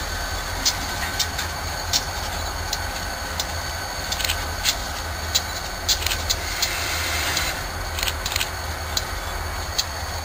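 Train of diesel locomotives passing: a steady low rumble with scattered sharp clicks from the wheels and track.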